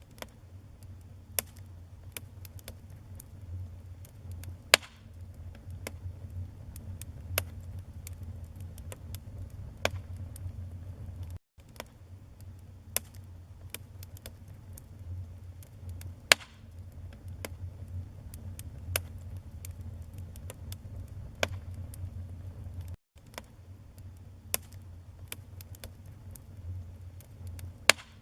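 Wood fire crackling, with irregular sharp pops, over a low steady rumble of the flames. The sound cuts out for a split second twice.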